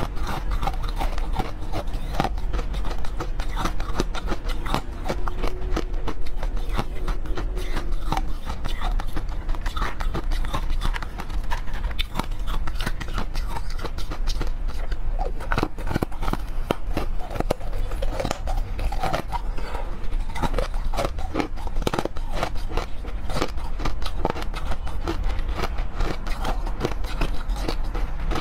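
A mouth biting and chewing frozen cubes: dense, continuous crunching and cracking as the hard frozen pieces break between the teeth.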